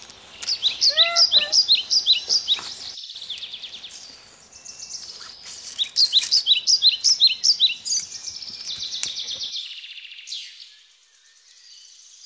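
Songbird chirping: rapid runs of short, high, falling chirps, about five a second, in two bursts, one near the start and one around six seconds in, with a brief lower gliding call about a second in. Near the end only a faint high twitter remains.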